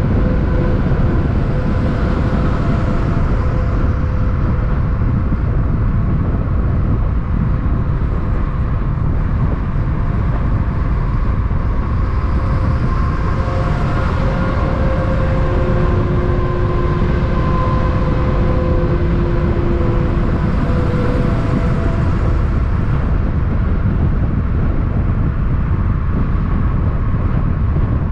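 Steady low vehicle rumble of engine and road noise, with faint whining tones that come and go.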